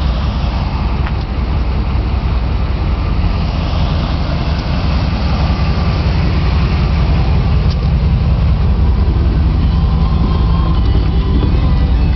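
Dodge Durango's 4.7-litre V8 idling steadily, its exhaust open with no tailpipe fitted.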